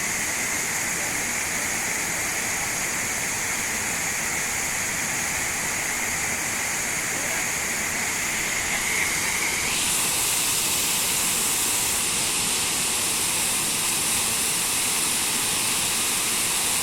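Waterfall: a steady rush of falling water that turns brighter and hissier about ten seconds in.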